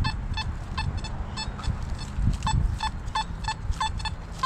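Metal detector giving short, repeated beeps, two or three a second, as the search coil is swept over ground, with low rumbling handling and ground noise underneath.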